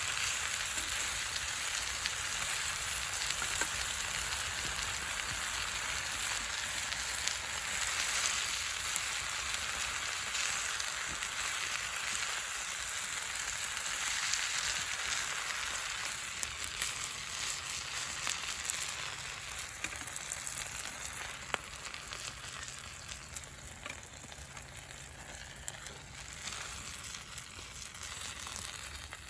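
Shrimp and other yakisoba ingredients sizzling in a hot pan over a campfire, a steady frying hiss with scattered small pops, dying down somewhat from about two-thirds of the way in.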